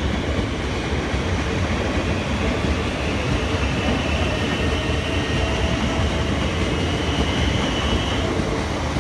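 Siemens Nexas electric train pulling out, a steady rumble of wheels on rails. A high steady whine joins it about three seconds in and fades about a second before the end.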